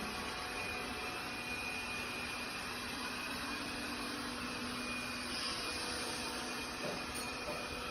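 Laresar robot vacuum running steadily, a continuous even whir of its suction motor with a faint steady hum.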